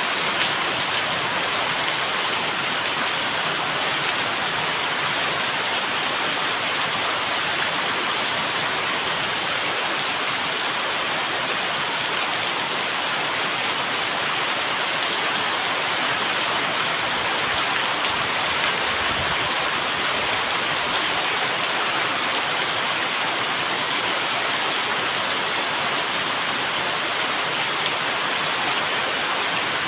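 Steady, even rain falling without a break.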